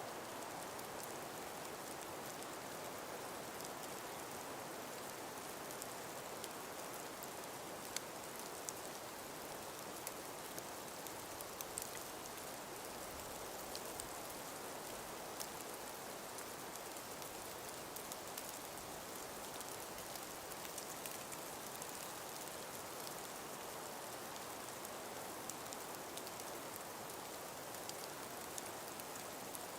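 Steady breeze in a frost- and ice-covered forest: an even hiss with many light scattered ticks and patters throughout.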